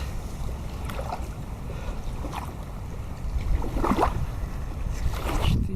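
Wind rumbling on the microphone at a riverbank, with river water lapping and a few faint short sounds scattered through.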